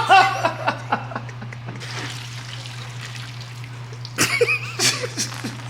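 Liquid trickling and dripping off an engine part as it is lifted out of a cleaning soak, over a steady low hum, with short voice sounds at the start and about four seconds in.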